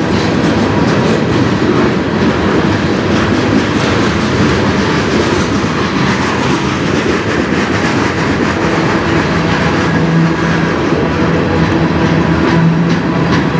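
Canadian National freight train rolling past, loud and steady, its cars' wheels running on the rails with faint repeated ticks. A low hum joins about nine seconds in.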